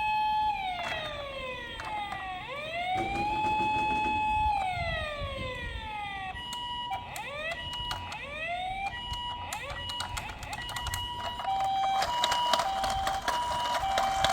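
Electronic toy siren from an RC toy vehicle's speaker: a wail that rises, holds and falls twice, then changes to evenly repeated beeps and, near the end, a hi-lo two-tone pattern. Clicking and rattling join in over the last couple of seconds.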